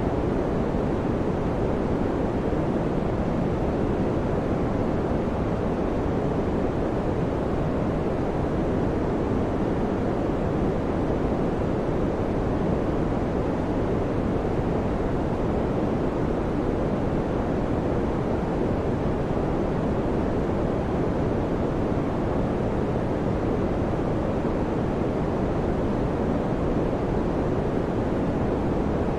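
Electric fan running steadily: an even, unbroken rushing noise with its weight low, no hum or clicks.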